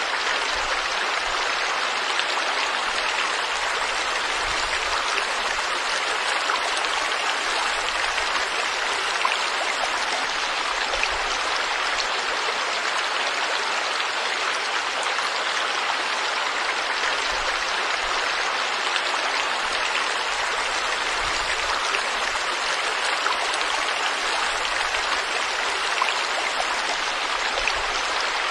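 Water flowing steadily in a stream, an even rushing with no breaks or single splashes.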